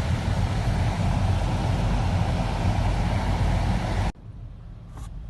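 Heavy downpour of rain: a dense, steady hiss with a low rumble underneath, cutting off suddenly about four seconds in.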